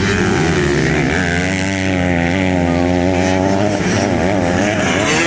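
Motocross motorcycle engines running and revving, their pitch wavering up and down.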